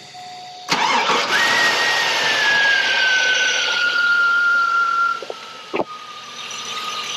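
2001 Chevrolet Silverado's engine starting up after a Seafoam treatment soak, cranking and catching about a second in, running fast with a whine that slowly falls in pitch, then settling to a quieter idle about five seconds in, with a single click after. The valve-train lifter tick is much reduced, immensely quieter.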